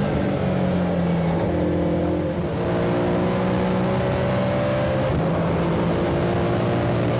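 BMW M3 race car engine running hard on track, its pitch holding fairly steady with a slight dip and gradual rise.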